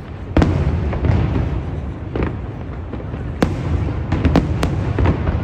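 Aerial fireworks going off: a string of sharp bangs and crackles, a big one about half a second in and a quick cluster near the end, over a continuous low rumble of launches and distant bursts.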